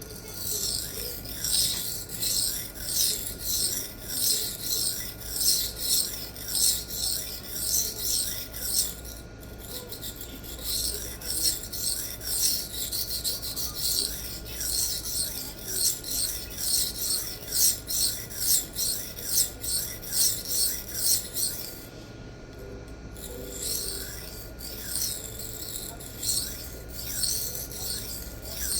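Steel knife blade rasping over a Sharpal diamond sharpening plate in steady, rhythmic strokes, a little more than one a second, with brief breaks about nine seconds in and again after about twenty-two seconds.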